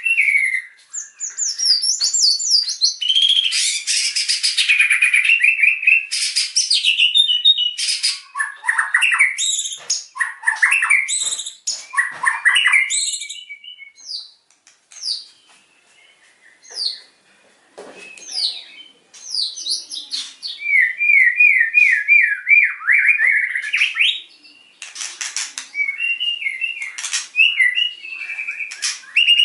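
White-rumped shama (murai batu) singing energetically, with loud varied whistled phrases and fast runs of repeated notes (the 'tembakan' of a bird in full song). About halfway through the song thins to scattered notes, then a new fast series of repeated notes follows.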